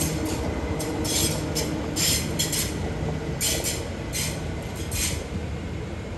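Train running on the rails: a steady low rumble with repeated short, high-pitched bursts of wheel noise, which stop about five seconds in.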